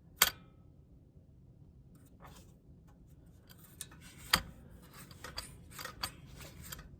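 Scattered small clicks and rattles of hands handling a lawn mower's control cables and plastic parts, with a sharp click just after the start and another about four seconds in.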